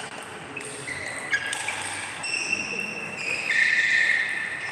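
Table tennis hall during play: one sharp tap about a second in, several high, held squeaks, the loudest near the end, and voices in the hall.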